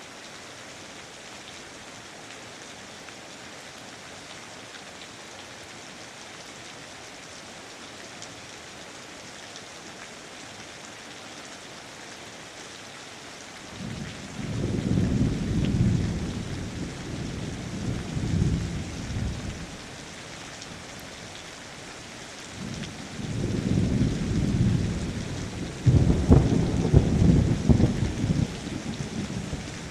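Steady rainfall, with thunder rumbling in deep rolling swells from about halfway through. The thunder comes in two spells, the second louder, near the end.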